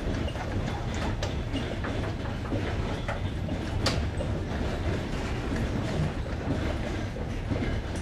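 Passenger train running on jointed rails, heard from aboard: a steady low rumble with the wheels clicking over the rail joints, one sharp click about four seconds in.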